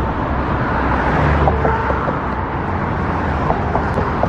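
Steady road traffic noise: cars and trucks going by in a continuous low rumble and tyre hiss.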